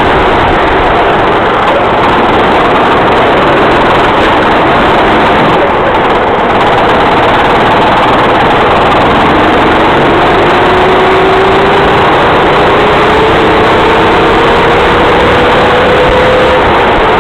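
Racing kart engine running hard under a loud, steady rush of noise. After a brief dip about six seconds in, the engine note climbs slowly over several seconds as the kart accelerates.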